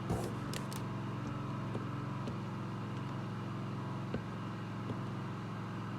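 Portable Wen generator engine running steadily under light load, a low even hum. A few sharp clicks come in the first second.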